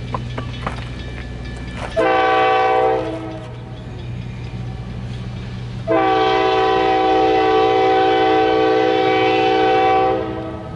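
Diesel locomotive's air horn sounding a short blast about two seconds in, then a long blast of about four seconds, over the engine's steady low running. A few sharp clanks come just before the first blast.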